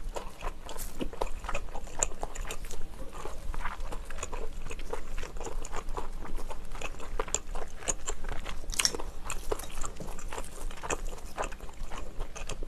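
Close-miked chewing of shellfish: a steady run of small wet mouth clicks and smacks, with one sharper click near the end.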